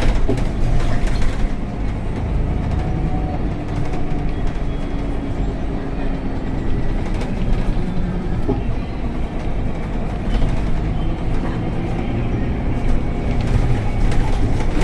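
Scania K250UB city bus running on the road, heard from inside: a steady diesel engine drone with road rumble and a few light clicks and rattles.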